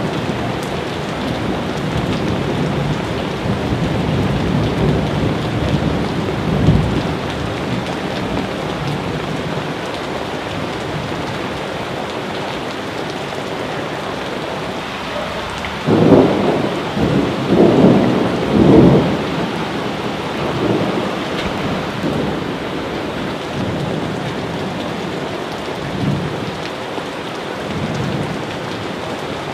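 Steady heavy rain falling, with rolls of thunder rumbling through it; the loudest rumbles come in a cluster a little past the middle, with fainter ones near the start and the end.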